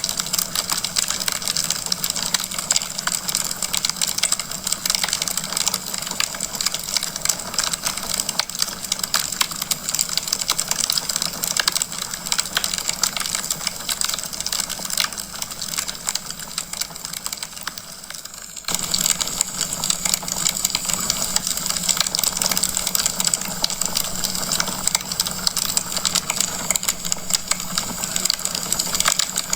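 Wood fire crackling in a fireplace: a dense, irregular run of pops and crackles over a faint steady hum, with a brief dip in the sound about two-thirds of the way through.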